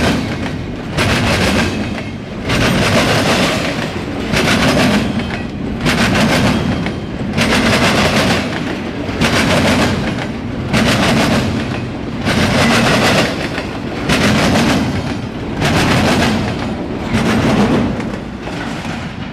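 Freight train's intermodal cars rolling past, their wheels clacking over the rail joints in a regular rhythm of loud surges about every second and a half.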